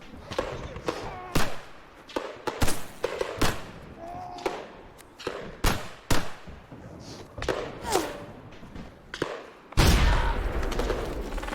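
Battle sound from a First World War film: irregular single gunshots, with short voice-like cries between them. About ten seconds in comes a sudden loud blast, followed by a sustained heavy rumble.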